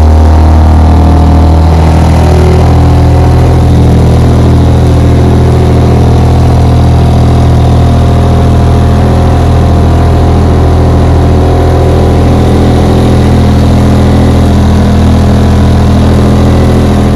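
A 1960 West Bend 2 hp model 2901 two-stroke outboard motor running steadily under way. The note shifts slightly about two seconds in, then holds even.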